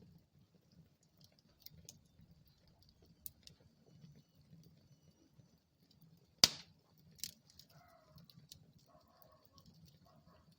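Wood fire crackling in a fireplace: scattered small snaps over a low rumble of flame, with one loud sharp pop about six and a half seconds in and a smaller one just after.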